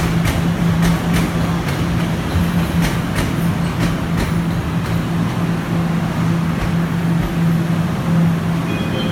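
Guangzhou Metro Line 1 train running on the rails: a steady low hum with sharp clicks, frequent in the first three seconds or so and only now and then after that.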